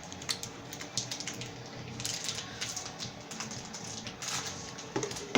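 Snack wrapper crinkling and crackling as it is opened: irregular dry crackles and clicks, with a sharper crackle near the end.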